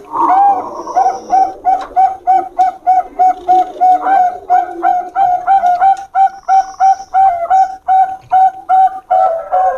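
Bangkok-bred zebra dove (perkutut) cooing: a long run of short, evenly spaced coo notes, about three a second.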